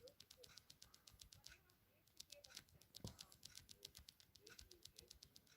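Faint, irregular ticking and soft scratching of a kitten's claws and paws on a plush hand puppet, with a single soft knock about three seconds in.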